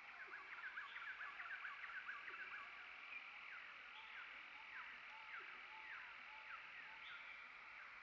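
Faint bird chirping: a quick run of short notes, then single short down-slurred notes about half a second apart, over a steady background hiss.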